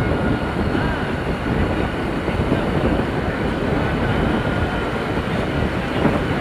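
Steady rumble of vehicle travel noise, with wind and road noise filling the microphone.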